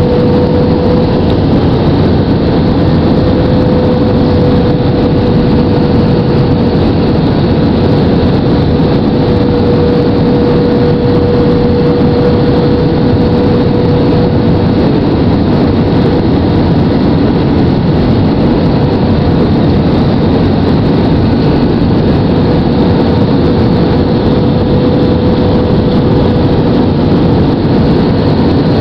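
Airbus airliner's jet engines running steadily, heard as a loud, even rumble with a steady hum on top.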